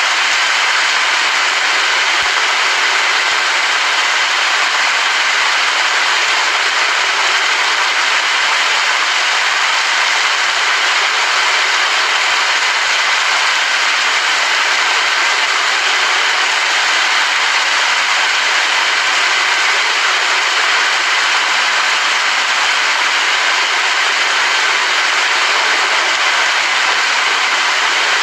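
Steady rain falling, an even hiss with no thunder or other separate sounds.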